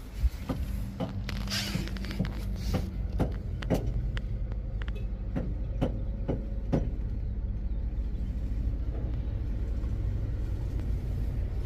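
An engine running steadily with a low rumble, with scattered sharp clicks and knocks over it.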